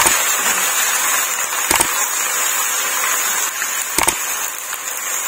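Ginger-garlic paste and browned onions sizzling in hot oil in a kadhai as they are stirred, a steady hiss with a few short knocks of the spatula against the pan.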